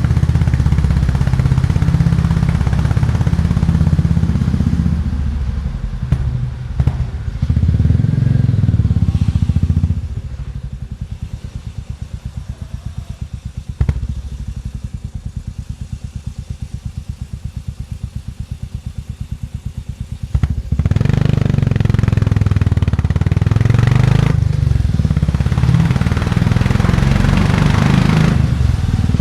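Classic motorcycle engine running on the road. It is loud under throttle at first, with brief dips a few seconds in. From about ten seconds in it drops off throttle to a quieter, evenly pulsing thump, then opens up loudly again about twenty seconds in, with a rushing hiss over it.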